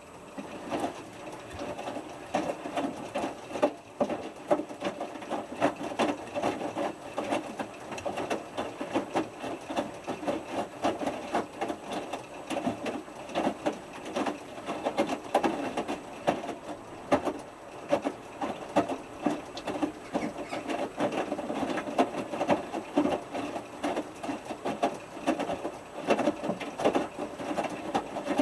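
Hotpoint Futura washing machine drum turning through one tumble of the heated main wash, a steady run of knocks and splashes as the small wet load drops in the drum. It starts suddenly at the very beginning and stops suddenly near the end, between quiet pauses.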